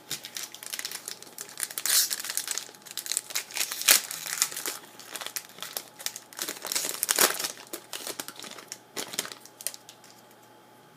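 Crinkling and crumpling of a trading-card pack's foil wrapper being handled, in irregular bursts that stop about nine and a half seconds in.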